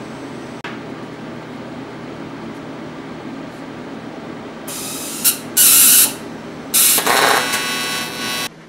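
Aluminum being welded: a steady machine hum, then three short bursts of hissing, buzzing arc about five, six and seven seconds in. The last burst is the longest, at about a second and a half.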